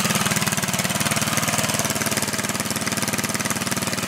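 Mini bike's small gas engine idling steadily with a fast, even beat, just started and warming up.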